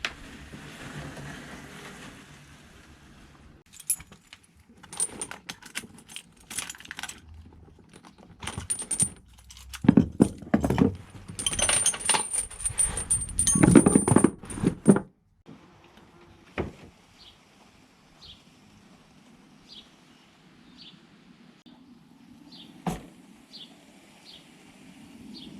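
Metal jangling and clinking, in scattered clicks at first and then a loud, busy run in the middle that stops suddenly. After that a faint high chirp repeats about once a second.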